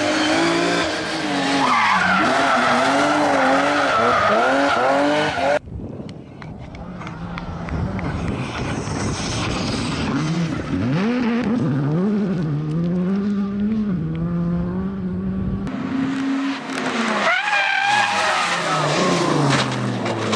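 Rally car engines revving hard, pitch climbing and dropping through gear changes, over tyre and gravel noise. The sound changes abruptly twice, about six seconds in and again near sixteen seconds.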